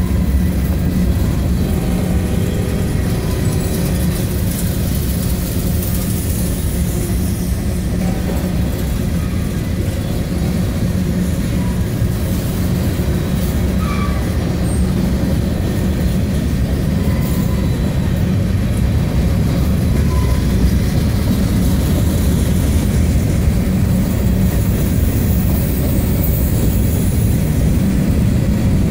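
Covered hopper cars of a freight train rolling past: a steady, loud rumble of steel wheels on rail.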